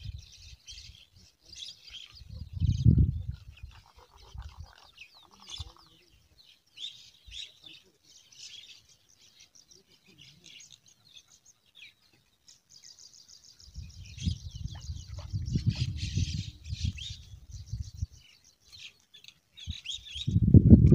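Small birds chirping and twittering, with many short high calls and a fast trill a little past the middle. A low rumbling noise on the microphone comes about three seconds in and again for several seconds toward the end, louder than the birds.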